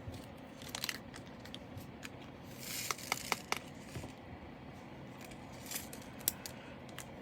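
Light handling of small plastic drill bags and loose diamond painting drills: scattered sharp clicks and taps, with a short rustle of plastic about three seconds in.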